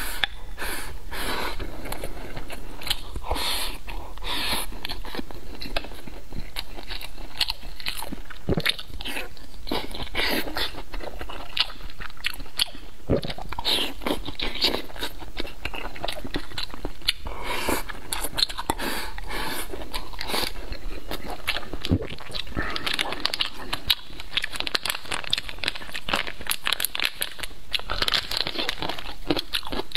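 Close-miked eating sounds: biting and chewing steamed green peppers and black rice, as a dense, continuous run of small mouth clicks and crunches.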